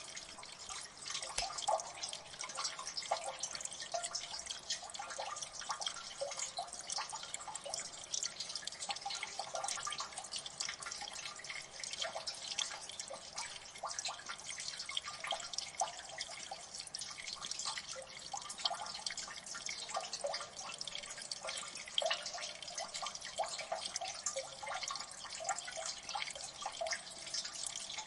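Water dripping steadily in a gully: many quick, overlapping drips and plinks.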